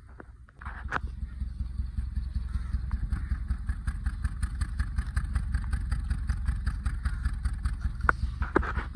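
Engine of a car with an ignition-coil misfire fault (code P0353) running with an even, rapid pulsing beat. It comes in abruptly about half a second in.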